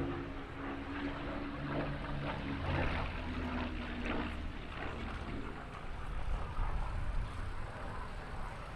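A Supermarine Spitfire's Rolls-Royce Merlin V12 engine droning as the aircraft flies past in a display, its note shifting slightly in pitch and then fading after about five seconds.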